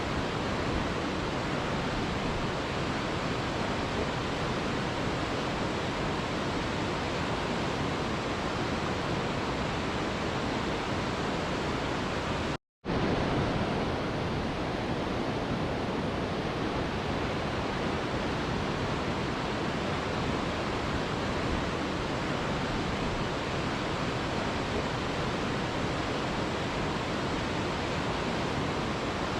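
Mountain river rushing over rocks, a steady full roar of flowing water. It cuts out for a split second about halfway through, then resumes.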